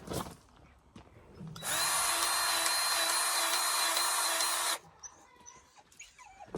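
A small electric motor, like a power tool's, running steadily for about three seconds with a high whine, starting and stopping abruptly.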